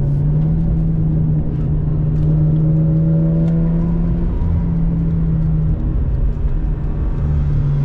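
Mazda RX-8's twin-rotor Wankel rotary engine running hard at steady revs, its note holding pitch for several seconds. The note dips briefly about six seconds in, then comes back.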